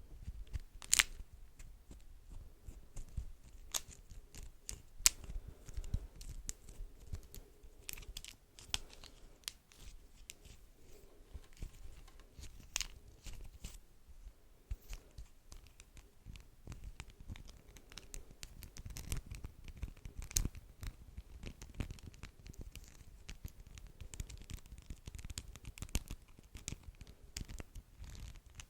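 Beeswax wrap being crinkled and peeled apart, with irregular sticky crackles and sharp snaps scattered throughout.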